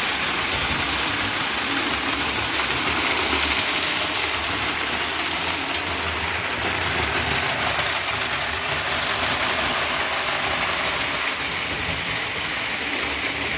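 Model train running on the layout track: a steady rumble and motor hum with hiss, unbroken throughout.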